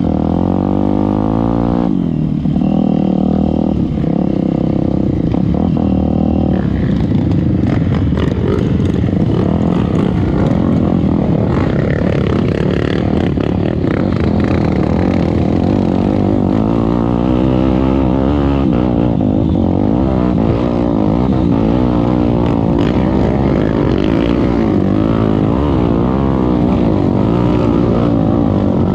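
Trail motorcycle engines running and revving, their pitch repeatedly rising and falling, with more than one engine heard at once in the second half.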